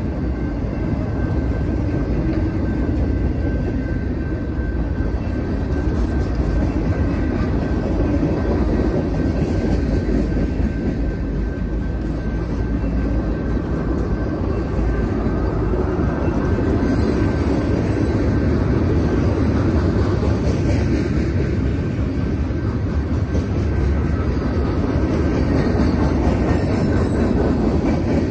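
Freight train cars rolling past on the rails, a loud steady rumble with a faint steady ringing tone above it.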